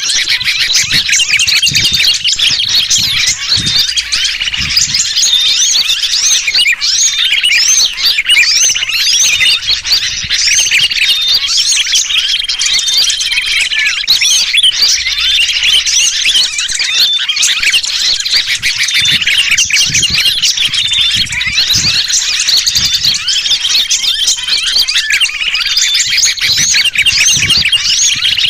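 A dense, unbroken chorus of small birds chirping and chattering, mixed with the distress calls of a trapped sooty-headed bulbul (kutilang). It is a bird-lure recording, made to draw small birds in.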